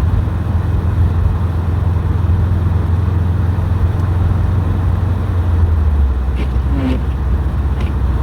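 Subaru WRX STI's turbocharged flat-four and tyres on the road, a steady low drone while driving. The drone drops in pitch about six seconds in, and a few faint clicks come near the end.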